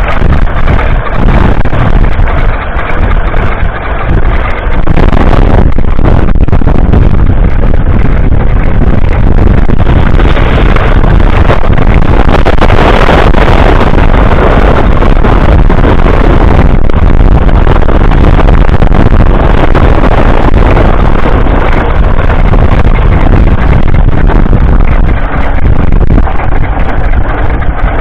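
1947 Fordson Model N's 4.4-litre four-cylinder petrol/TVO engine running, loud and steady.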